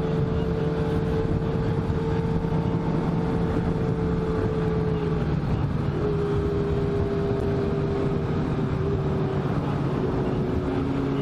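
Inline-four 600 cc sport-bike engines running at a steady cruise, heard from the rider's own bike under a constant rush of wind. The engine pitch steps down a little about halfway through and again near the end.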